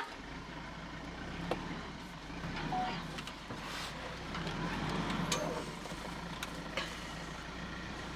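A vehicle engine starts and runs at a steady idle, with a few sharp clicks over it.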